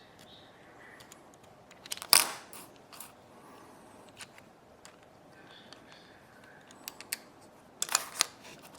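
Small tools and parts clicking and scraping during hand work on a tiny electronic device: a loud cluster of clicks about two seconds in, a few light ticks after it, and another loud cluster of clicks near the end.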